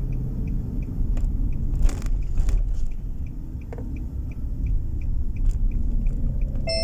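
Steady low road and engine rumble of a car being driven, heard from inside. A light regular ticking, about three ticks a second, runs over it, with a few scattered knocks.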